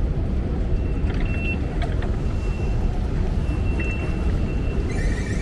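Underground station ambience: a steady low rumble with a few faint, short high squeaks and clicks.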